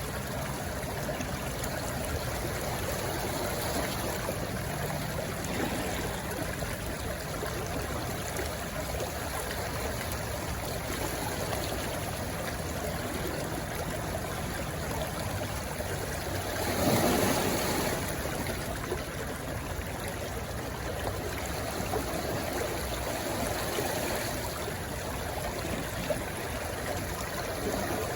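A shallow stream rushing and trickling over stones where it runs into the sea, steady throughout, with one louder surge of water about two-thirds of the way through.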